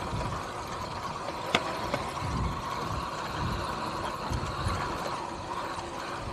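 An electric dirt bike riding along, heard from an onboard camera: a faint steady whine over wind gusting on the microphone, with one sharp click about one and a half seconds in.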